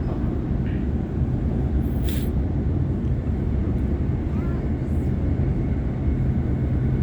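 Sydney Trains Waratah electric train running at speed, heard from inside the carriage: a steady low rumble of wheels on track with a constant low hum, and a brief hiss about two seconds in.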